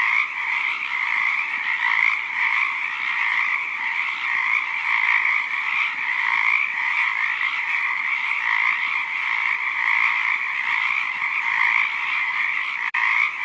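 Frogs calling continuously without a break, a dense steady sound, with one brief dropout near the end.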